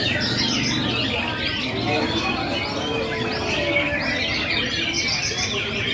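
Many caged songbirds singing at once, among them white-rumped shamas (murai batu): a dense, unbroken chorus of overlapping whistles, trills and chirps.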